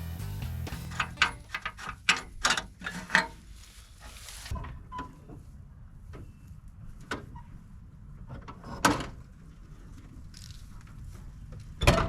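Metal clicks and knocks of hand tools working on an engine: a quick run of them in the first three seconds, then a few single knocks, the loudest near the end.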